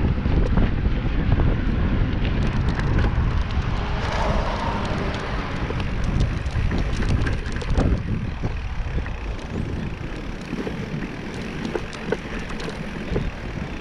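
Wind rumbling on the microphone while riding a bicycle, with tyre and road noise and scattered small clicks and rattles; the noise eases off gradually over the second half.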